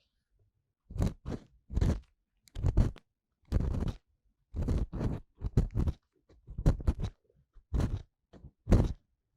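Ear-cleaning tool scraping and rubbing inside the silicone ear of a 3Dio binaural microphone. It comes in about ten short, crunchy strokes roughly a second apart, with silence between them.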